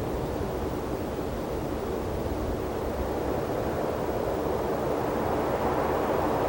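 Wind blowing steadily, with low buffeting on the binaural microphones; slightly louder near the end.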